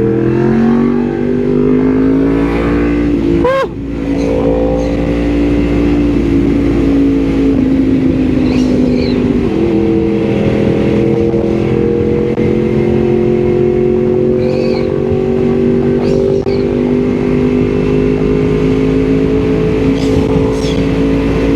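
Yamaha MT-10 SP's crossplane inline-four engine running through an Austin Racing link pipe and end can, heard from on the bike while riding. The engine note climbs in pitch under acceleration, breaks briefly about three and a half seconds in and again near ten seconds as it shifts up a gear, then rises slowly over a steady low rumble of wind and road.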